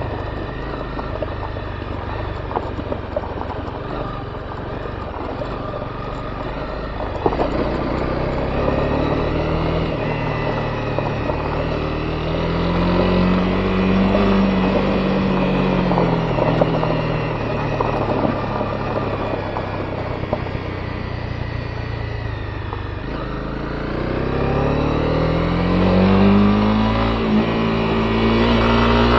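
Honda CB250R's single-cylinder engine on the move over gravel: revs climb from a low, steady note, ease off, then climb steadily again near the end. Under it run a steady rush of wind and the crackle of tyres on loose stones.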